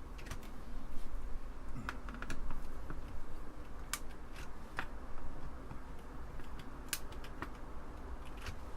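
Irregular light clicks and ticks of a screwdriver driving small screws into a computer keyboard assembly.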